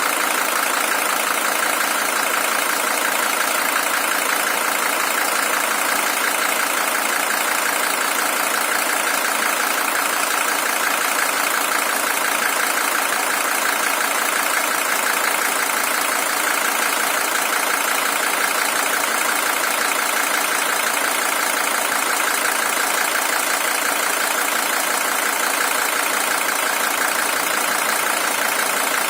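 Mercedes-Benz OM617 five-cylinder diesel engine in a W123 300TD idling steadily, an original engine with 620,000 km on it.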